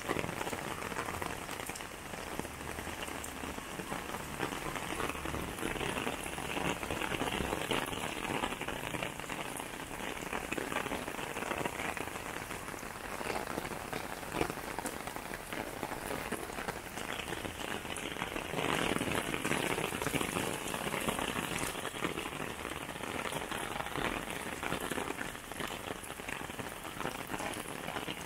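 Steady rain falling, a dense patter of drops, heavier for a few seconds about two-thirds of the way through.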